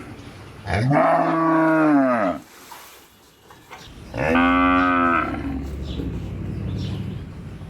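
Cow mooing twice: a long call about a second in whose pitch rises and then falls, and a shorter one about four seconds in, followed by a low rumble.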